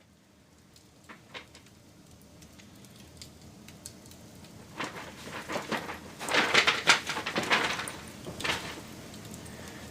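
Wood fire crackling, faint at first and growing, with scattered sharp cracks and then a dense run of loud crackles from about five to eight seconds in.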